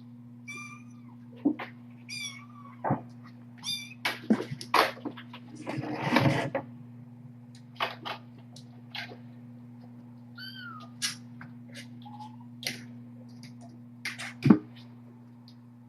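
Young kittens mewing in short, high calls several times, among scattered knocks, clicks and rustling as they play, over a steady low electrical hum. A sharp knock near the end is the loudest sound.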